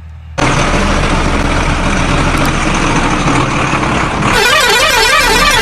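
Truck engine running sound that starts suddenly about half a second in, joined near the end by a warbling, rising-and-falling electronic horn, the running sound played for a toy dump truck.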